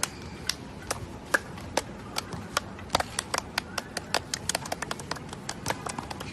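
A rapid, irregular series of sharp taps or clicks over a steady background hiss, growing denser after about three seconds.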